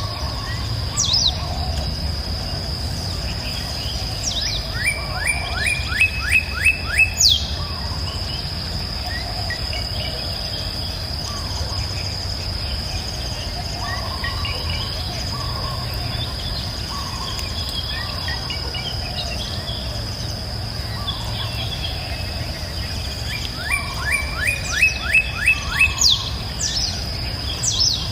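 Birds singing: a loud phrase of about eight quick repeated notes with sharp sweeping calls comes twice, a few seconds in and again near the end, over a steady high insect trill and a low, even rush of flowing water.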